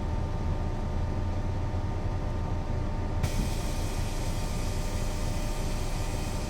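Mercedes-Benz O 405 NÜ bus running under way: a steady low diesel drone with faint steady whining tones above it. About three seconds in, a hiss comes in suddenly and stays.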